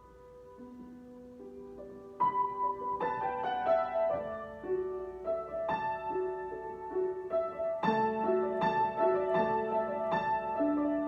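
Solo piano playing an improvisation: soft sustained notes at first, then from about two seconds in louder struck notes and chords, with a strong chord near eight seconds.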